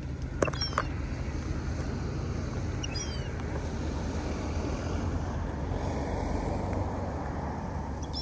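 A steady low engine-like drone, with a few short, high, falling bird chirps about half a second in, about three seconds in, and at the end.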